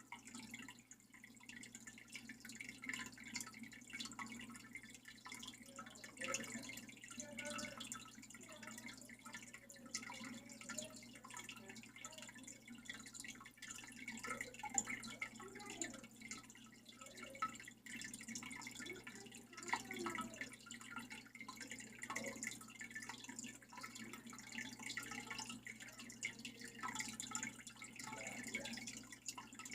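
Faint water dripping and trickling, steady throughout with many small drips.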